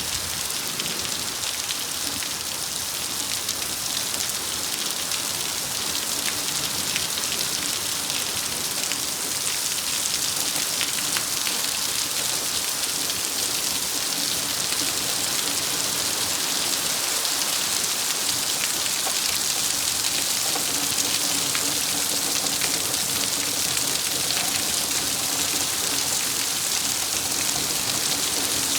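Heavy rain from a severe thunderstorm, falling steadily as a dense, even hiss that grows a little louder over the stretch.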